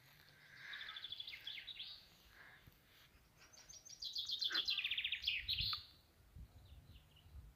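Songbirds singing in two phrases of rapid, high trilled notes: a short one just after the start and a longer one about four seconds in.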